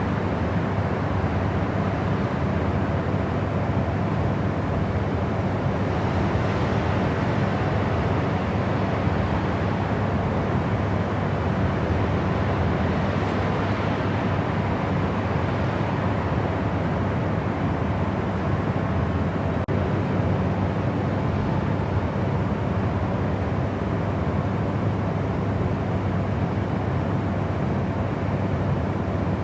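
Steady white noise for sleep: an even, unchanging rush with most of its weight in a low rumble and a softer hiss above.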